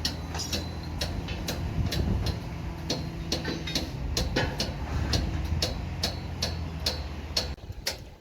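An engine running steadily under a regular ticking of about two to three sharp clicks a second. The engine cuts out about seven and a half seconds in, while the ticking goes on.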